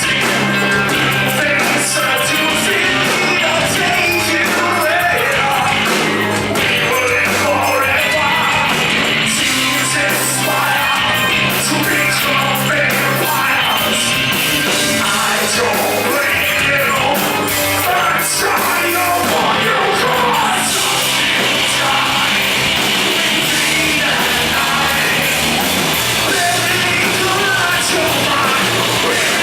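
A live rock band playing loudly, with heavy guitars and drums under a singer's shouted, yelled vocals.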